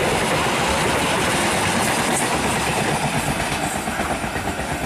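Passenger train passing at speed: a steady rush of wheels on rails as the coaches go by.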